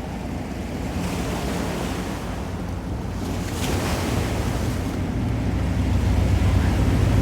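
Ocean surf breaking and washing on the shore, with wind buffeting the microphone. A wave washes in with a brief hiss about halfway through, and the low wind rumble grows louder toward the end.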